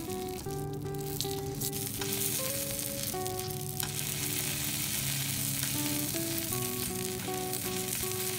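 Chicken burger patty sizzling on a hot griddle plate, the sizzle growing louder about two seconds in, under background music.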